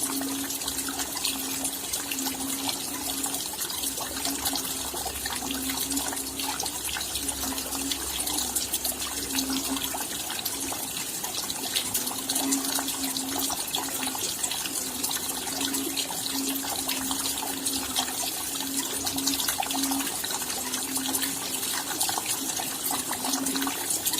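Steady rain at night, a dense hiss of falling rain with many individual drops ticking sharply on top.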